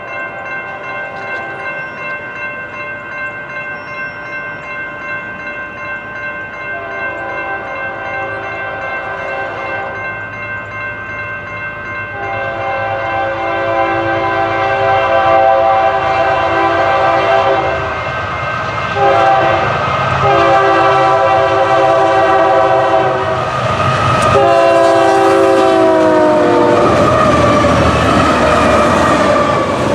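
A diesel locomotive's multi-chime air horn sounding as the train approaches: long blasts, one short blast, then a final long one, the crossing pattern, growing louder. Near the end the horn's pitch drops as the locomotive passes, and the loud rumble of the engine and wheels on the rails takes over.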